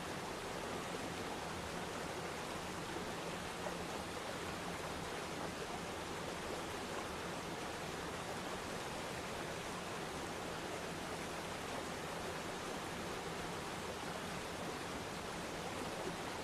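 Waterfall: falling water splashing into a pool, a steady even rush with no change.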